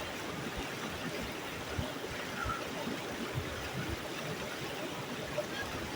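Stream water running steadily, an even rushing noise with no breaks.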